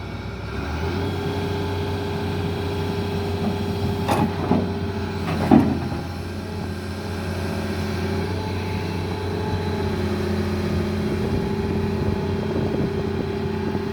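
Excavator's diesel engine running steadily, picking up load about a second in, with a few sharp metallic clanks in the middle, the loudest about five and a half seconds in.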